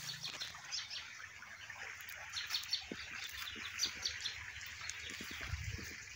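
Small songbirds chirping and twittering: many quick, high calls scattered throughout, over a soft steady hiss.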